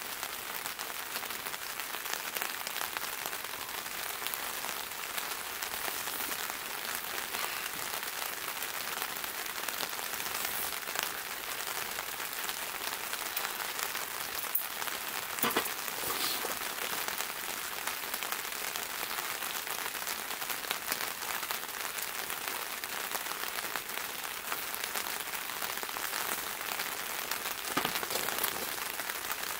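Steady rain pattering on the fabric of a tent, heard from inside, with a couple of sharper clicks, one about halfway through and one near the end.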